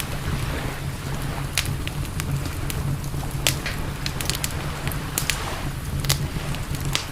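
Campfire crackling: frequent sharp, irregular pops and snaps of burning wood over a steady low rush.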